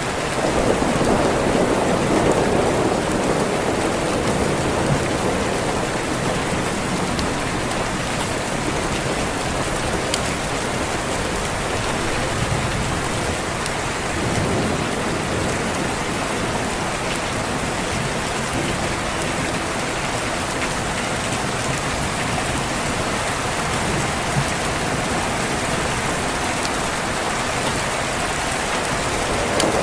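Steady rain, with low rolling thunder swelling in the first few seconds and again near the end.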